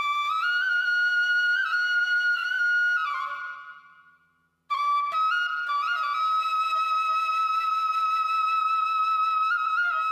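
Background music: a slow solo flute melody of long held notes. The phrase fades out about three and a half seconds in, followed by a brief silence, and a new phrase begins just before five seconds.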